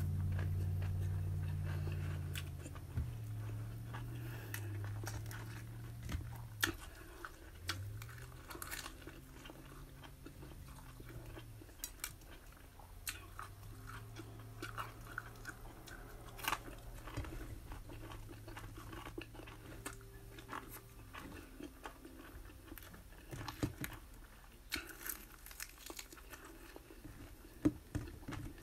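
A person chewing and crunching chicken wings and bacon, with scattered light clicks of fingers and food against a plate. A low hum sits under the first few seconds and comes back faintly later on.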